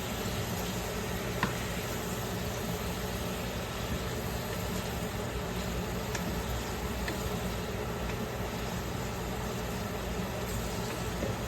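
Steady low machine hum with a hiss, and a faint click about a second and a half in.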